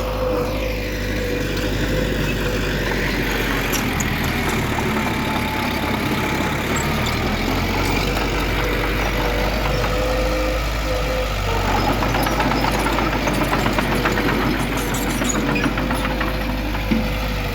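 Heavy diesel engine of earthmoving machinery running steadily, with a constant whine in the mix.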